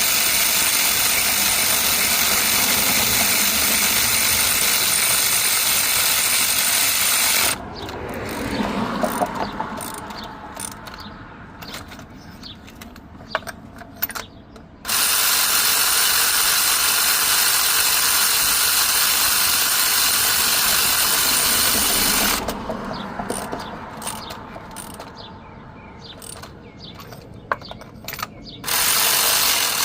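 Steady, loud mechanical running noise from a tool or machine, in three stretches of several seconds each that start and stop abruptly. Between them are quieter clicks and tool-handling noises, like a hand ratchet being worked.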